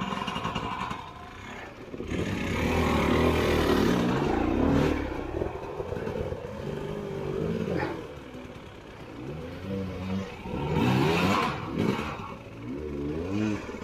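Trail motorbike engine revving up and down in short rises and falls as the bike crawls over rough ground, with a few sharp knocks.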